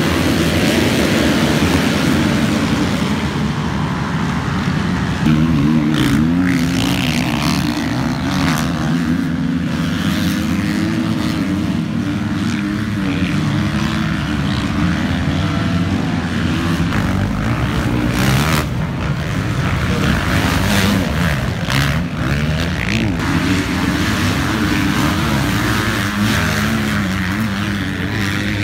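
Motocross bike engine racing, its pitch rising and falling continuously as the throttle is worked, with a rushing noise over it.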